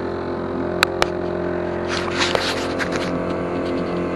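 Boat motor running steadily at trolling speed, a constant hum. Two sharp clicks come about a second in, and a short stretch of scraping or rustling follows in the middle.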